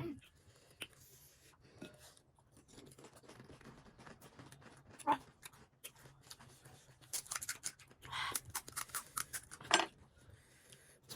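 Crisp panipuri shells crunching and being chewed close to the microphone: many short sharp crackles, with a few louder, longer mouth sounds near the end.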